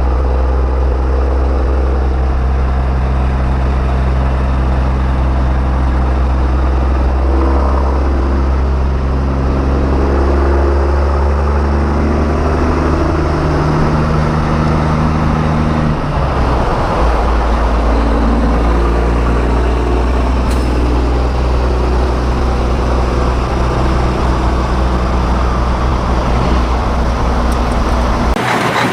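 Heavy diesel semi-truck engines running, a strong steady low rumble with tones that shift in pitch every so often, changing abruptly near the end.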